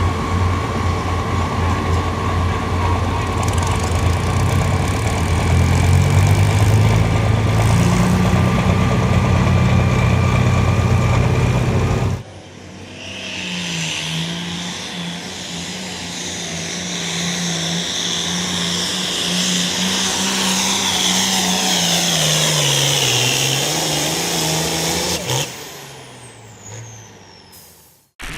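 Truck engines running. A loud, low engine sound rises in pitch, then stops with a sudden cut. A second engine follows, its pitch wavering up and down before it fades out near the end.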